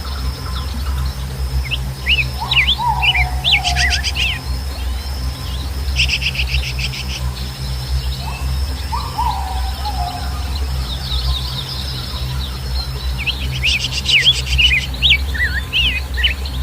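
Several birds chirping and calling, with quick rattling trills three times and a lower call that falls in pitch twice, over a steady low rumble and a faint steady high whine.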